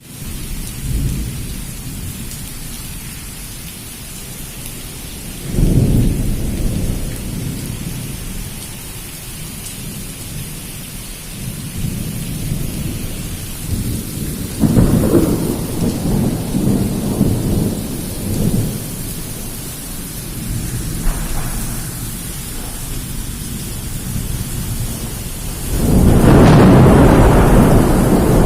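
Torrential rain hissing steadily, with rolls of thunder rumbling over it: one about six seconds in, a longer stretch in the middle, and the loudest starting near the end.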